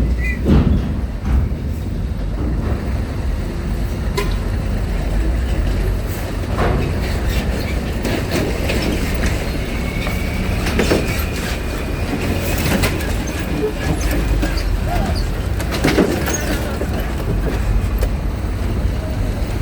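Trucks and cars driving onto a ferry: a steady low engine rumble with scattered knocks and clanks, several of them, strongest about half a second in, near 11 seconds and near 16 seconds.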